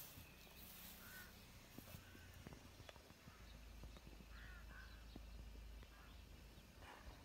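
Near silence outdoors, with a few faint, short bird calls about a second in, at two seconds and twice near the middle.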